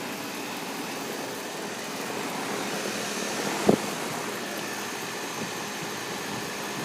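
2007 Guardian 4-ton central air conditioner (heat pump) outdoor unit running, a steady rushing noise over a faint hum. A single short knock cuts through it a little past halfway.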